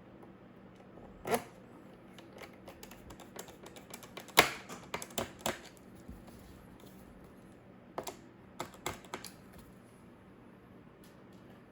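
Typing on a laptop keyboard: a single keystroke, then a quick run of key clicks with one louder tap in the middle, and a few more keystrokes near the end.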